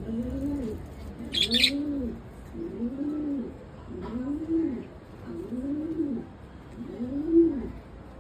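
A bird cooing: a run of low calls, about one a second, each rising and then falling in pitch. There is one short high chirp about a second and a half in.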